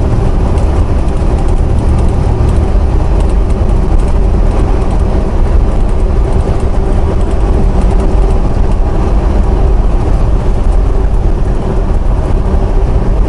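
Semi-truck's engine and road noise heard inside the cab while driving at highway speed: a loud, steady low rumble with a faint steady hum running through it.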